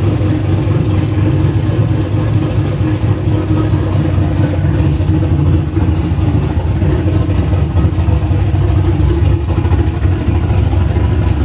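Small-block V8 engine in a G-body car, running loud and steady.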